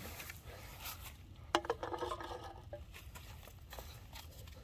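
Quiet handling noises with small scattered clicks, and one sharp click with a brief ring about one and a half seconds in.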